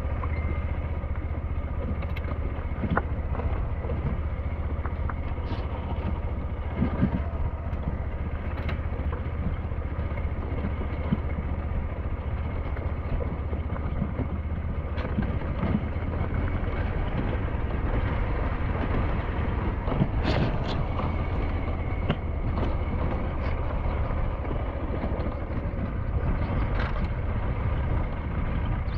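SYM NH T 200 motorcycle's 200 cc single-cylinder engine running steadily while riding a mountain forest road, with scattered knocks and rattles over the rough surface.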